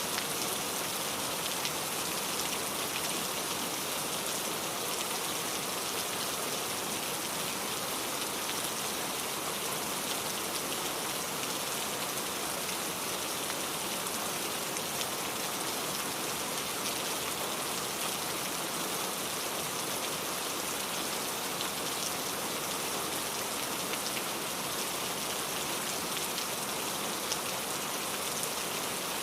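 Steady rain falling, a dense hiss of drops with fine pattering of individual drops hitting a surface.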